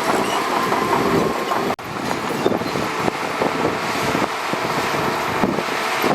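Shantui DH17C2 crawler bulldozer running, its steel tracks clanking and rattling in a dense, uneven stream of knocks over the engine noise. The sound drops out for an instant about two seconds in.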